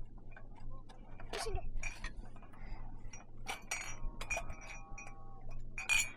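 Tableware clinking: a string of light knocks, several with a short ringing tone, as cups or dishes are handled.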